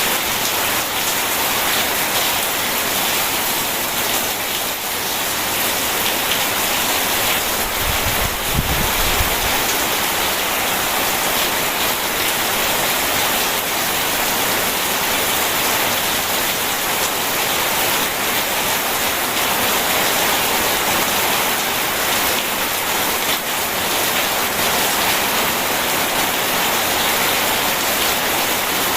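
Steady heavy rain falling as a dense, even hiss. There is a brief low rumble of distant thunder about a third of the way through.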